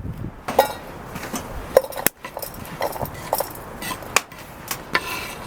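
A series of irregular knocks and clicks, the sharpest a little under two seconds in.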